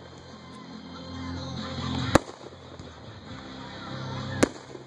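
Aerial fireworks shells bursting: two sharp bangs, one about two seconds in and one near the end.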